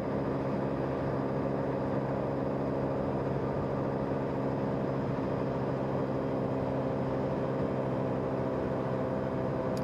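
Motorbike engine running steadily at cruising speed, a constant even drone, with wind and road noise.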